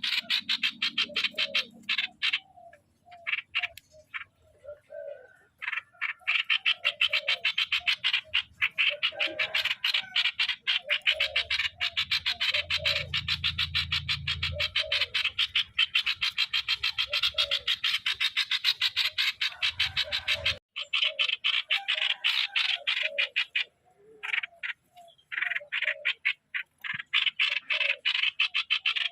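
Streak-eared bulbul decoy calling, a fast continuous run of short harsh notes broken by a few brief pauses. This is the sound used to lure wild bulbuls.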